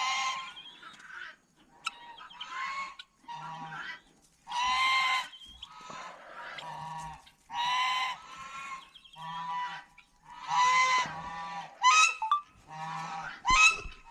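Geese honking: a string of separate loud honks, one every second or so.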